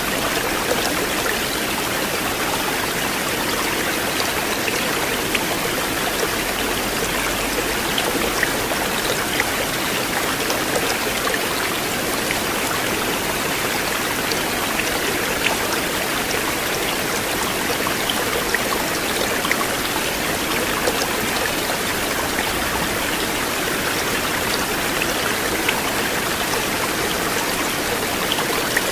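River water flowing steadily, a continuous rush with scattered small splashes and drips.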